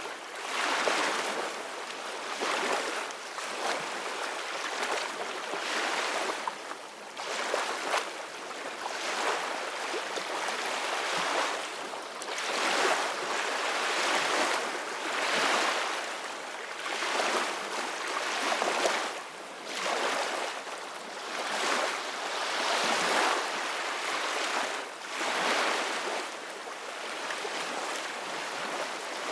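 Ocean waves washing in, the surf swelling and falling back about every two seconds.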